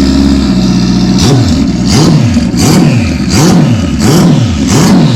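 Turbocharged custom motorcycle engine, just started, running for about a second and then blipped on the throttle again and again, its pitch rising and falling about once every 0.7 seconds.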